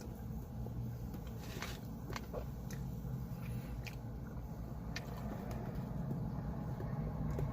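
A person chewing a mouthful of boneless buffalo chicken wing, with scattered soft mouth clicks, over a steady low hum.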